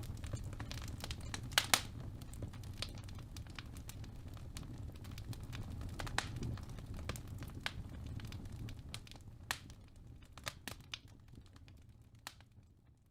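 Wood fire in a fireplace crackling, with irregular sharp pops over a low rumble of flame, two loud pops close together about a second and a half in. The sound fades out gradually over the last few seconds.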